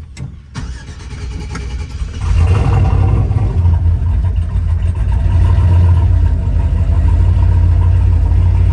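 Turbocharged 6.0-litre V8 of a Silverado pickup running, with a couple of clicks near the start; about two seconds in the engine gets much louder, then holds a steady, strong low drone.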